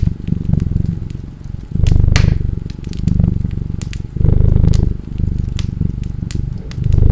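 A cat purring, a low pulsing rumble that swells louder about every two and a half seconds. Over it, a wood fire crackles with scattered sharp pops.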